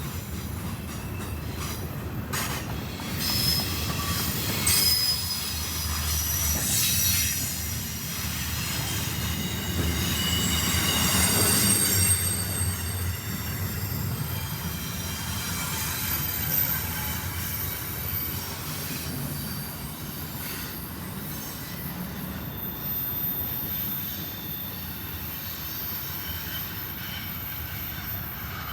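Freight train cars rolling past on steel rails, their wheels squealing in several thin high tones over a low rolling rumble. Clicks from the wheels over rail joints are heard in the first part.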